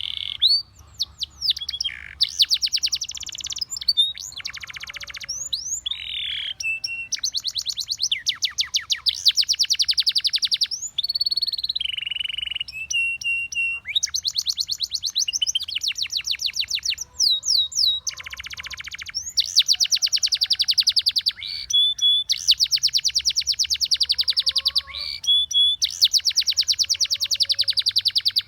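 Canary singing a long, continuous song: fast rolling trills of rapidly repeated high notes, several seconds each, alternating with short held whistles and quick slides in pitch.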